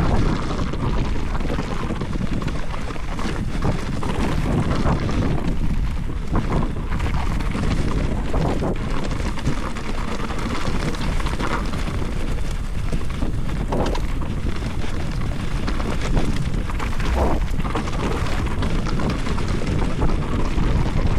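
Wind buffeting the microphone while riding a mountain bike: a steady, noisy rumble strongest in the low end, with a few short rattles.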